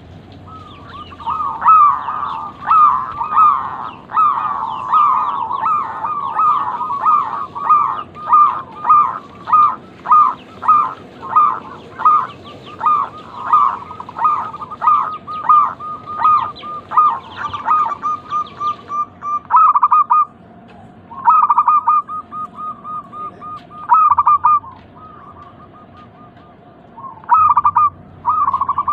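Zebra doves (perkutut) cooing: rapid runs of short, high staccato notes. Several birds overlap densely for about the first two-thirds, then the calling breaks into separate bursts of fast trilled coos with short pauses between.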